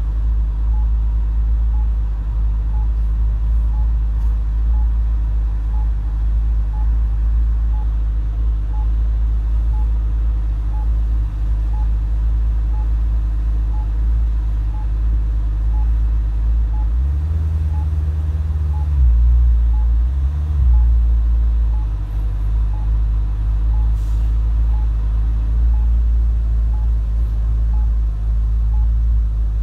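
The Maserati GranSport Spyder's 4.2-litre V8 idles with a steady low rumble, heard from inside the cabin. The turn-signal indicator ticks faintly about once a second. Past the middle, the rumble briefly grows louder twice.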